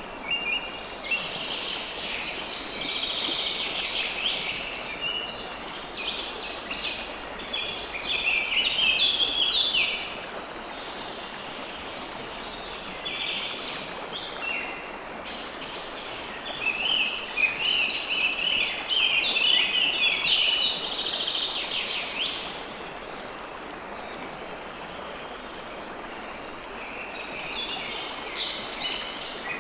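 Steady rush of flowing river water, with several birds singing in dense, overlapping bursts that come and go: for about the first ten seconds, again in the middle, and once more near the end.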